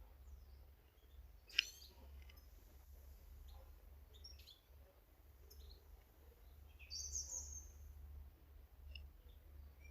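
Faint garden birdsong: scattered short, high chirps, with a brief burst of high twittering about seven seconds in. A single sharp click about a second and a half in is the loudest sound, over a steady low rumble.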